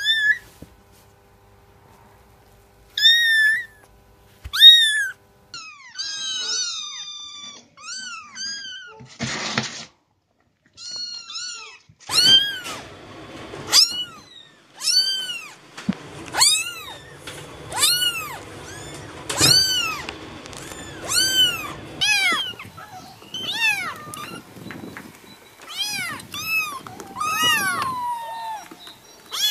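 Young kittens mewing: high, thin calls that rise and fall in pitch, a few scattered at first, then a run of calls about one a second. A brief burst of noise about nine seconds in.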